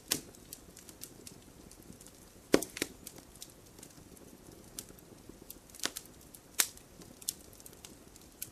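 Wood fire crackling, with irregular sharp pops of varied loudness, the loudest about two and a half seconds in, over a faint low hiss.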